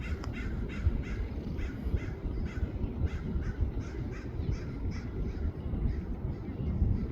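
A bird giving a rapid series of short, harsh calls, about three a second, that fade out near the end, over a steady low rumble.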